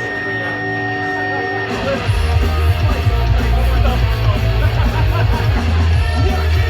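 Live amplified punk rock band with electric guitar. A steady high tone and held notes ring until about two seconds in, when the full band comes in much louder and bass-heavy.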